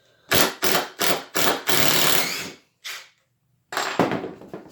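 Cordless impact driver run in several short trigger bursts, then a longer run of about a second, with a shorter burst near the end, driving screws into hard wood.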